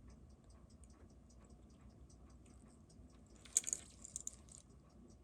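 Seiko 6139 automatic chronograph movement ticking faintly and evenly, about six ticks a second, its 21,600 beats per hour, with a short louder clicking handling noise about three and a half seconds in.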